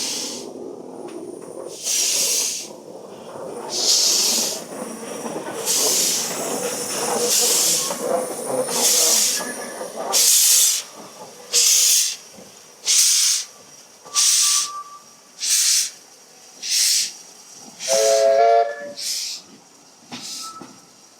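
NG15 2-8-2 narrow-gauge steam locomotive pulling away. Its exhaust beats quicken from about one every two seconds to roughly one a second, over a hiss of steam that stops about halfway through. A brief pitched tone sounds near the end.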